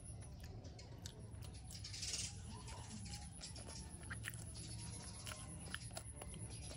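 Someone biting into and chewing a strip of fried eggplant: a short rustly bite about two seconds in, then scattered small wet mouth clicks of chewing.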